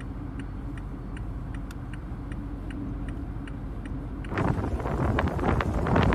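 Inside a car: a steady engine and road hum with a turn-signal relay ticking about twice a second. About four seconds in it cuts to strong wind buffeting the microphone.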